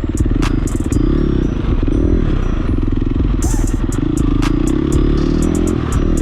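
KTM 350 dirt bike's four-stroke single-cylinder engine running while riding a trail, its pitch rising and falling with the throttle. Sharp clicks and clatter are scattered through it.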